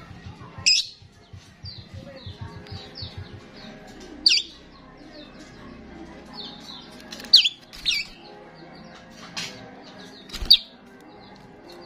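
A starling singing: about six loud, shrill calls that sweep down in pitch, with softer chirping notes between them.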